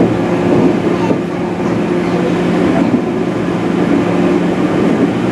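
JR West 103 series electric train running, with a steady hum over the rumble of wheels on rail.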